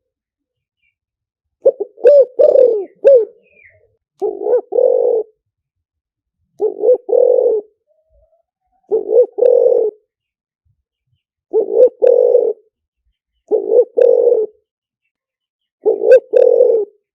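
Spotted dove cooing: a longer run of notes about two seconds in, then short double-note coos repeated about every two seconds.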